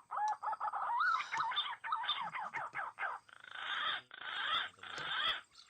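Green pigeon (punai) calling: a quick run of warbling, sliding whistled notes, then three harsh rasping bursts of about half a second each.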